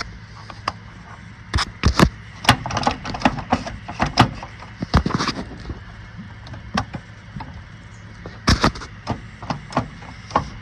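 Sharp clicks and knocks from the Kubota M62 front loader's control lever being worked into its detent, over a steady low hum from the tractor's engine.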